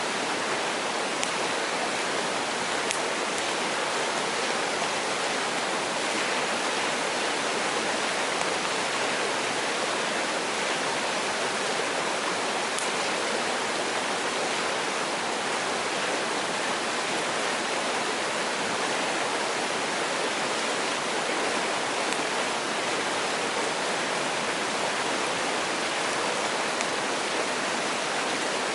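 Mountain stream rushing steadily over rocks, with a few faint pops from a wood campfire.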